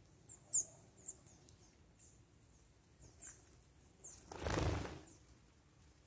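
Small birds giving short, high chirps that drop in pitch, several in the first second and more around three to four seconds in. A brief rushing whoosh lasting under a second follows and is the loudest sound.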